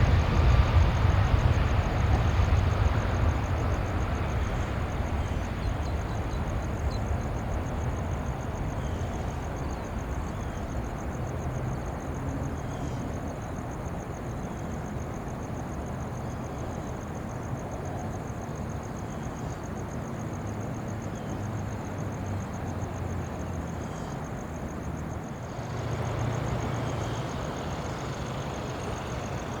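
Jet airliner engine rumble, loud at first and fading over several seconds as the aircraft moves away, then settling into a steady distant rumble. The rumble grows a little louder again near the end, and a faint steady high-pitched buzz runs underneath.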